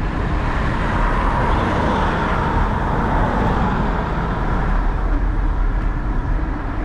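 Steady road traffic noise heard while riding along a road, with a constant low rumble.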